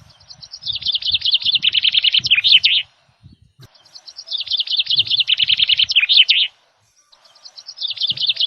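A songbird's rapid, high chirping song: the same phrase of about three seconds repeats three times with short gaps between.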